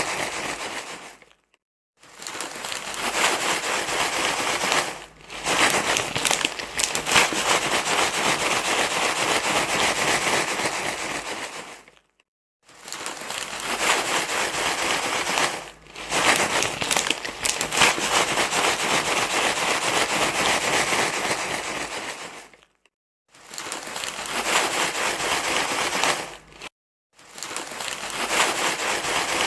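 Dense crinkling rustle, like something being crumpled and handled, in long bouts broken by short silent gaps every few seconds.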